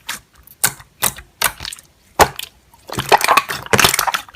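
Slime being pressed and squished by hand, a series of sharp wet pops and crackles at irregular intervals, coming thicker near the end.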